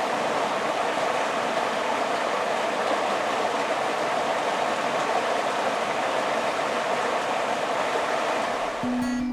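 Steady rush of creek water flowing over a small fall. Acoustic guitar music comes in near the end.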